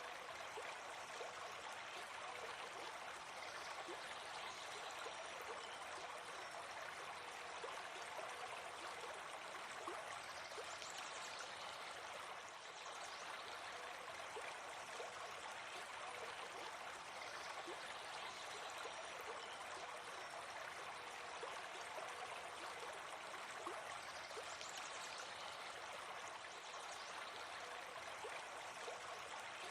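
Faint, steady rush of a flowing stream, even and unbroken.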